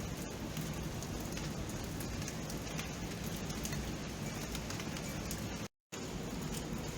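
Steady rain falling at night: a continuous hiss dotted with the small ticks of individual drops. The sound cuts out completely for a moment about five and a half seconds in, then resumes as before.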